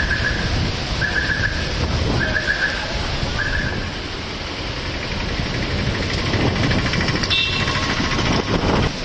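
Road traffic in heavy rain: a steady noise of rain and passing vehicles, with four short high beeps about a second apart near the start.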